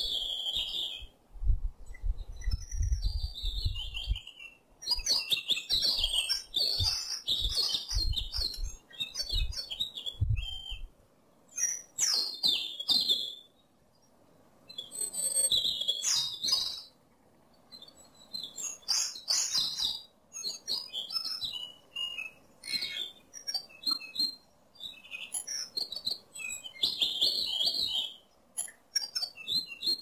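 Birds chirping in quick, irregular high-pitched bursts with short pauses between them, with low thuds under the chirping in the first ten seconds or so.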